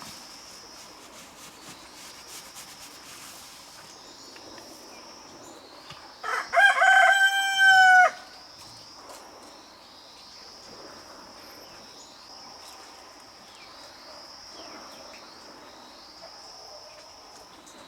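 A rooster crows once, a loud call of about two seconds starting some six seconds in. Behind it, insects keep up a high whine in repeated phrases.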